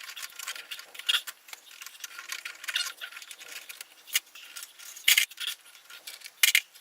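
Broken brick pieces and mortar worked by hand into a gap in a brick arch: irregular scraping and rattling, with a few sharp clinks of brick on brick.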